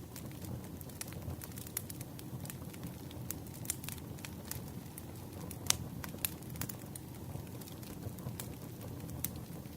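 Campfire burning: wood crackling with irregular sharp pops over a low, steady rumble of the flames, one pop louder than the rest about six seconds in.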